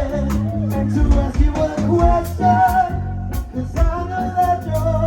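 Live band playing a song, with bass, drums and melodic lines over a steady beat.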